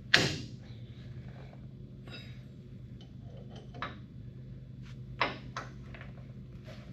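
A sharp metallic clank with a short ring right at the start, then a few lighter clicks and knocks, the loudest about five seconds in: tools and hub parts being handled during a front wheel bearing job.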